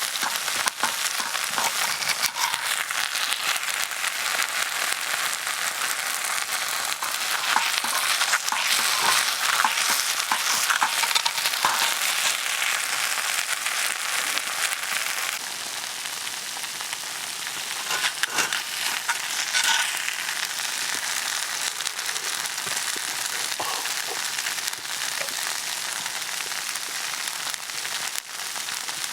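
Monjayaki sizzling steadily on a hot iron griddle, with scattered small clicks. The sizzling eases slightly about halfway through.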